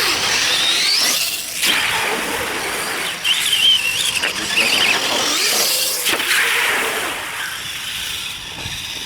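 RC mud truck's motor whining high, revving up and down in several spurts as the truck is driven.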